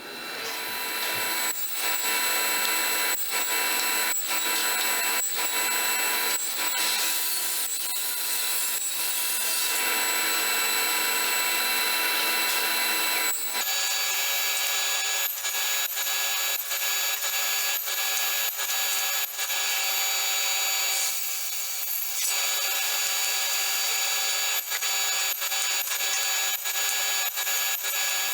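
Electric power tool working wood: a steady motor whine over the hiss of cutting or abrading, with regular light knocks. About halfway through the whine shifts to a different set of pitches.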